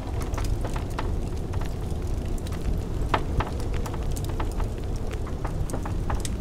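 Wood fire crackling in a fireplace, with irregular sharp pops and snaps, the loudest about three seconds in, over a steady low rumble of blizzard wind.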